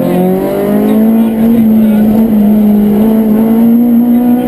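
Citroën Saxo rally car's engine under hard acceleration, heard from inside the cabin, its revs climbing steadily and held high in gear.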